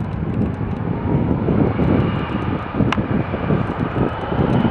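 Jet airliner's engines running with a deep, rough rumble that grows louder.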